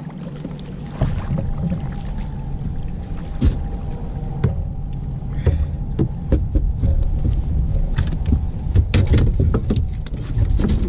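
Knocks, clunks and handling noise in a fishing boat over a low rumble, as a caught catfish is handled and weighed.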